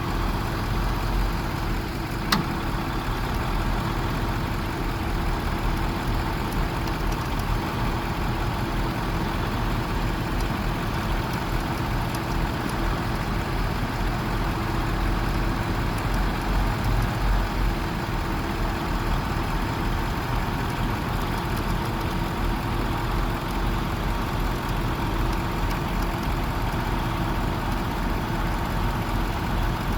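Truck engine idling steadily, with a single sharp click about two seconds in.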